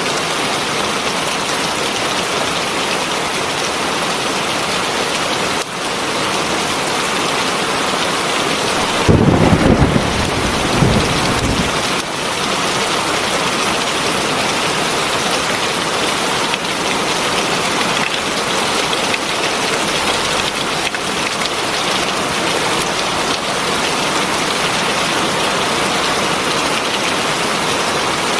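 Heavy rain falling steadily in an even hiss. About nine seconds in, a roll of thunder rumbles low for roughly three seconds.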